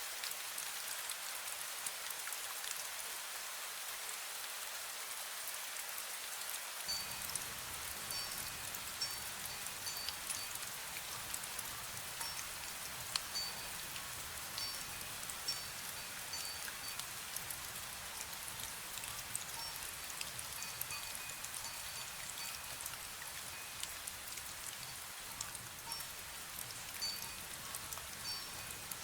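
Steady fine rain falling with scattered drop ticks, and a small wind bell ringing now and then with short, clear high notes, mostly from about seven seconds in.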